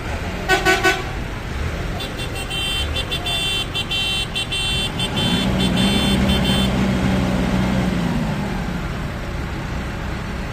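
Vehicle horn giving a short double toot, then a high, rapidly chopped horn pattern for about five seconds, over a steady engine rumble. A lower steady drone swells in and fades out in the middle.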